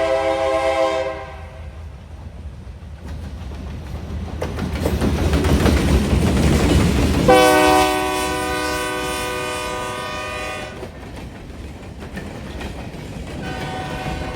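A freight train's diesel locomotive horn sounds a chord that stops about a second in. Then the rumble of the locomotive and the clatter of its wheels grow louder as it passes. The horn blows again for about three seconds from about seven seconds in, and once more near the end.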